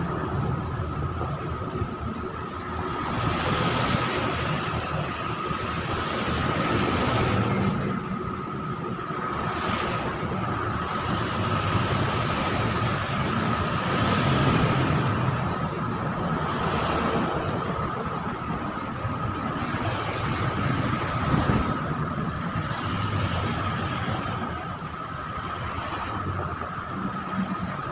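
Steady engine rumble that swells and eases every few seconds, with wind noise and a steady high-pitched whine.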